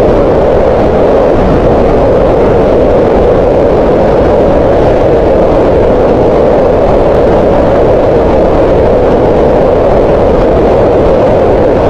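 Green noise: a steady, unchanging hiss concentrated in the middle of the hearing range, around 500 Hz, with the highs and deep lows rolled off.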